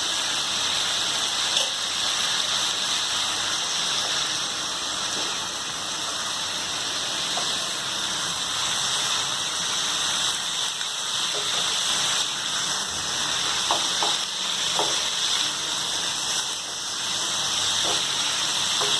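Vegetables sizzling steadily as they stir-fry in an overfull frying pan, with a few faint taps of a utensil.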